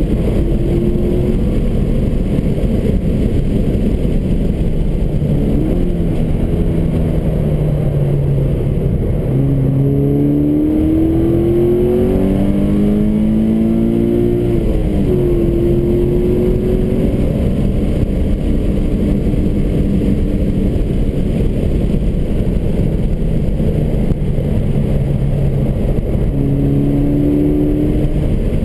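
Subaru BRZ's flat-four engine heard from inside the cabin at track speed under heavy road and wind noise. The engine pitch climbs under acceleration around the middle, drops sharply at an upshift, and climbs again near the end.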